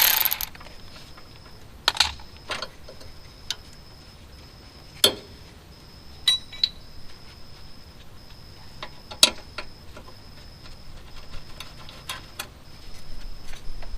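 Scattered light metallic clicks and knocks, about seven of them at irregular intervals, from hand tools and bolts being handled while car parts are unbolted.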